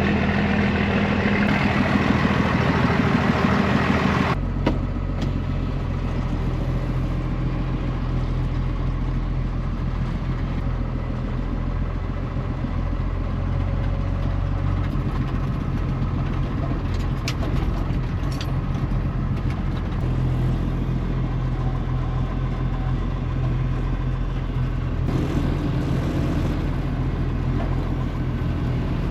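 Pickup truck engine running steadily at idle. The sound changes abruptly about four seconds in, like a cut, and then goes on at a steady idle.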